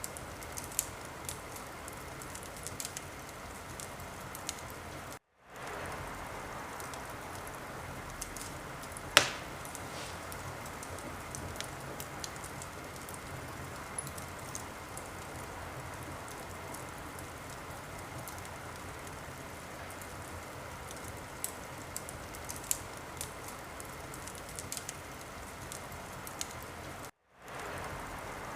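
Wood fire in a fireplace burning with a steady hiss and scattered crackles, with one loud pop about nine seconds in. The sound cuts out completely for a moment twice, about five seconds in and near the end.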